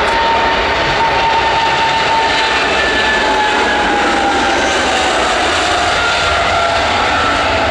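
Cargo aircraft's engines running loud as it passes by, a steady rush with a whine that slowly falls in pitch.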